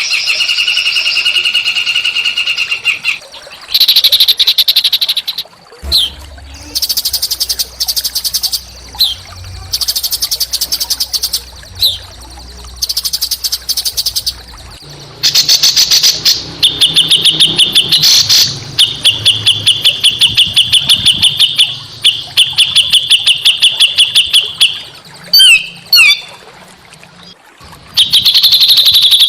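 Small songbirds singing harsh, fast chattering trills of rapidly repeated notes in bursts, with a few quick whistled glides about 25 seconds in. This is a masteran recording of coarse song, used to train cage birds such as the white-rumped shama.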